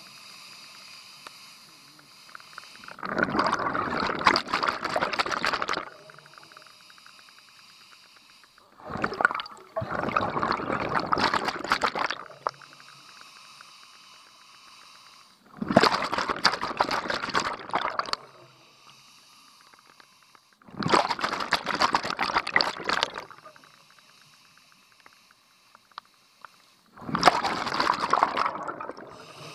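Scuba diver breathing through a regulator underwater: five exhalations, each a rush of bubbles lasting two to three seconds, coming about every six seconds, with a quieter steady hiss between them.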